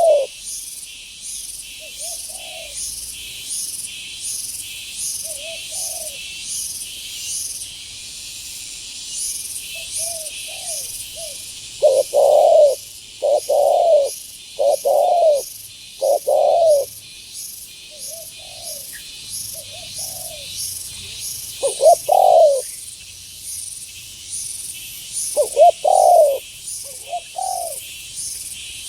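Spotted doves (tekukur) cooing: loud groups of coos about twelve seconds in, again at about 22 and 26 seconds, with fainter coos between them. Under them a steady insect chorus shrills in fast, even pulses.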